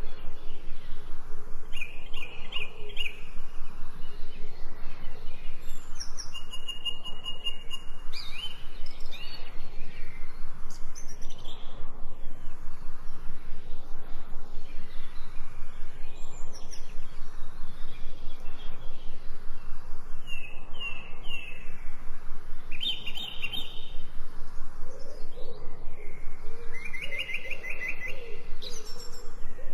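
Several birds chirping and trilling in short, repeated phrases over a steady background hiss, with low calls joining in near the end.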